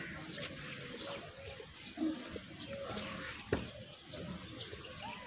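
Birds chirping outdoors, with many short, quick, falling calls. A short low sound comes about two seconds in, and a sharp knock about a second and a half later.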